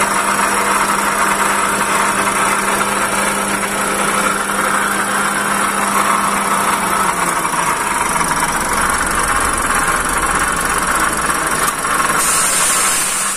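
Toyota Calya engine idling with a loud, rough running noise in the engine bay. The mechanic suspects the alternator, pulleys, water pump or idler, and a stethoscope later finds it loudest at the alternator. A high hiss joins near the end.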